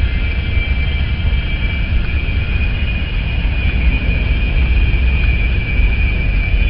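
Freight train rolling past at close range, a heavy steady rumble with a continuous high-pitched wheel squeal from the wheels grinding through the junction's curve.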